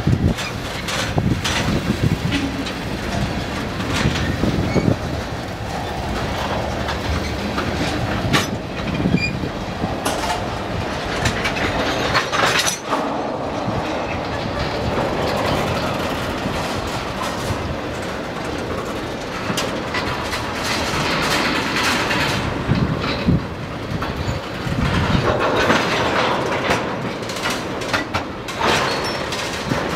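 Freight train of tank cars rolling past: a steady rumble of steel wheels on rail, with a scatter of clicks as the wheels pass over rail joints.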